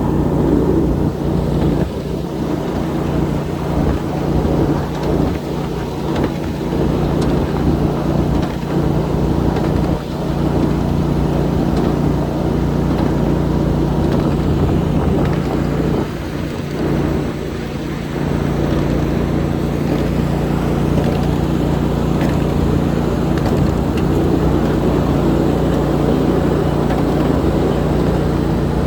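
A 7.5-inch gauge ride-on miniature train running along its track: a steady low hum from the locomotive under a continuous rumble, with scattered clicks and rattles from the wheels and cars.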